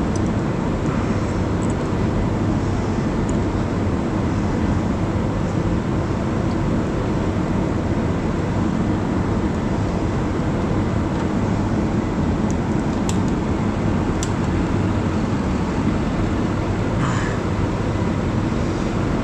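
A steady mechanical drone, like a machine or engine running. A few faint clicks about two-thirds of the way through come from the door lock parts being fitted.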